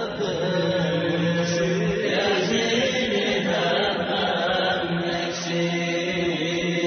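Chanted vocal music with long held notes.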